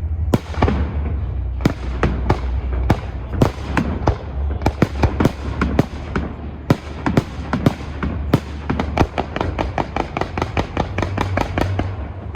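Fireworks display: a steady run of shell bursts, sharp bangs coming thick and fast and packing into a rapid volley in the last few seconds, over a steady low rumble.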